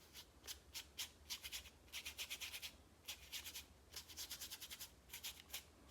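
Paintbrush rubbing quick, short strokes across watercolour paper: a faint scratchy brushing that comes in clusters of several strokes a second.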